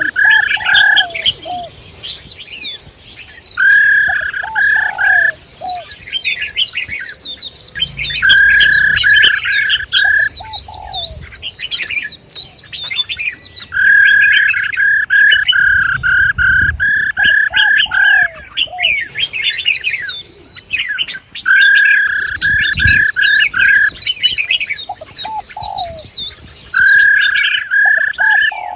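Recorded female songbird calls: a phrase of a steady whistled note with quick high chips and trills, repeated about every four to five seconds.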